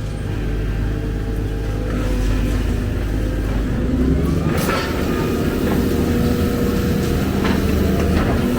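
Excavator's diesel engine running under load, its note rising and strengthening about four seconds in as the machine works harder, with a few sharp metallic clanks.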